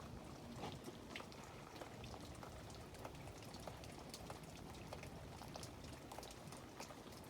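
Freezing rain falling during an ice storm: many small, irregular drop ticks on ice-glazed surfaces over a faint steady hiss.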